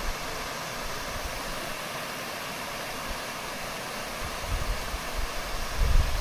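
Water rushing steadily. Wind buffets the microphone with low rumbles from about two-thirds of the way in.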